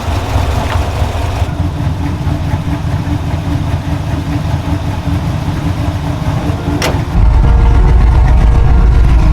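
Pickup truck's 5.3-litre LT V8 running while the truck is driven, a steady engine and road rumble. A click about seven seconds in, after which the low rumble gets much louder.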